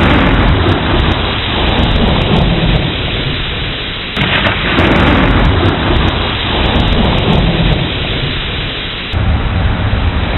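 Steady heavy rain with thunder rumbling deep and long, swelling and fading under the rain. The sound changes abruptly about four seconds in and again near the end.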